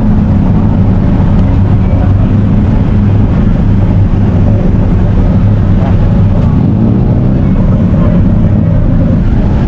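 A loud vehicle engine running steadily with a low hum, rising in pitch about seven seconds in as it speeds up.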